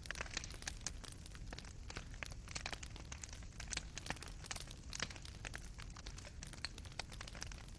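Fireplace fire crackling: burning coals give off many irregular small pops and snaps over a low, steady rumble.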